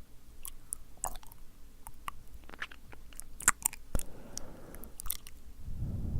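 Close-miked ASMR mouth sounds: a man's wet, sticky tongue and lip clicks and smacks, many sharp clicks coming in an irregular run.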